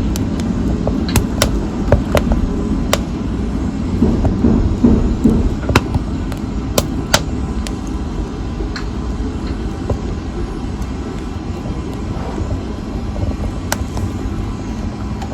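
Wood fire burning in a fireplace: a steady low rumble of flames with scattered sharp crackles and pops, more frequent in the first half.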